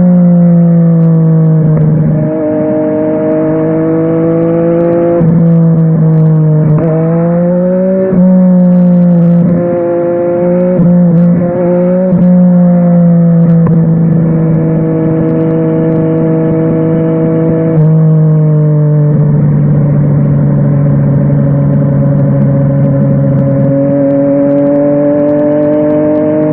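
Yamaha Tracer 900 GT's three-cylinder engine through a WR Authentic aftermarket exhaust, heard while riding. The exhaust note rises and falls with throttle, with several sudden pitch drops and climbs in the first half and longer steady stretches after.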